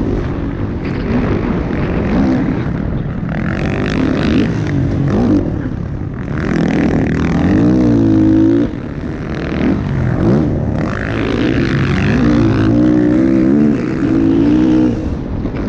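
Motocross motorcycle engines revving, their pitch climbing and falling again and again, with more than one engine heard at times.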